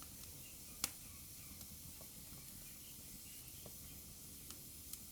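Fireplace fire crackling: a soft steady hiss with scattered sharp pops, the loudest about a second in and a few smaller ones near the end.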